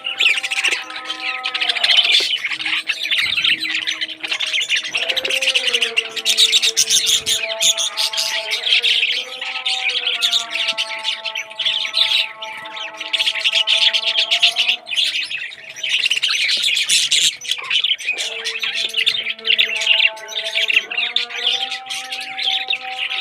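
Many parrots chattering and chirping without pause, with squawks mixed in. Sustained background music notes run underneath.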